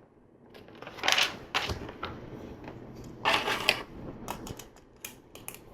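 Hands handling small plastic LEGO pieces and a sticker sheet: brief rustling scrapes about one and three seconds in, then a run of light plastic clicks.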